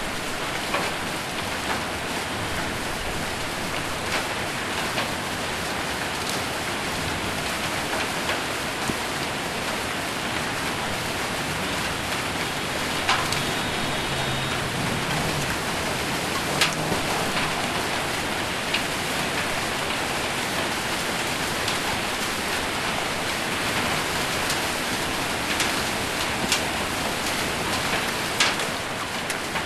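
Heavy rain with hail falling on a roof: a steady hiss of rain with scattered sharp hits, a few louder strikes standing out.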